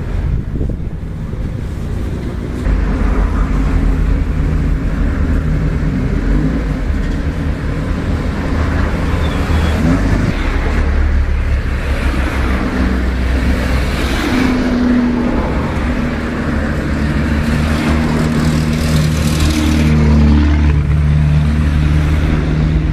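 A heavy machine's engine running under load, a steady low drone that rises in pitch and level a few times as it works.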